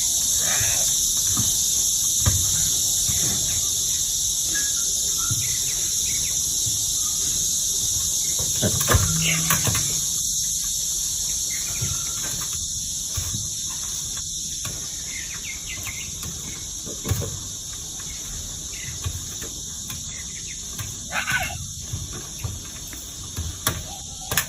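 Steady high-pitched insect drone, like cicadas or crickets, with scattered soft thumps and a few brief chirps.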